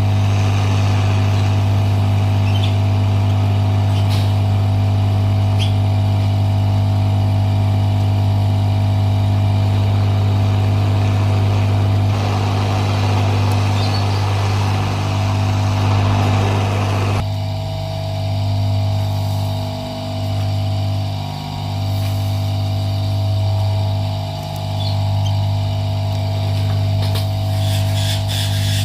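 A steady low electrical or motor hum, with the level dipping briefly a few times in the second half.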